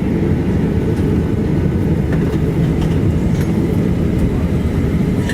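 Steady low rumble inside the cabin of a Boeing 737-800 taxiing after landing: the CFM56 engines at idle and the airframe rolling, with a few faint ticks.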